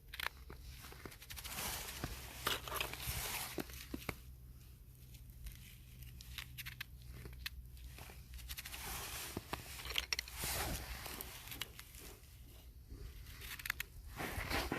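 Close-up handling sounds: irregular crinkling, rustling and tearing, with many small sharp clicks.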